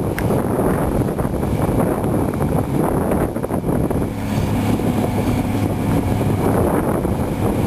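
Cat 345B hydraulic excavator's diesel engine running hard while loading demolition debris, with wind buffeting the microphone; a steady low engine note settles in about four seconds in.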